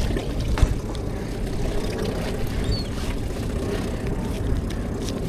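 Small outboard motor idling steadily, with a low even hum and a few faint knocks.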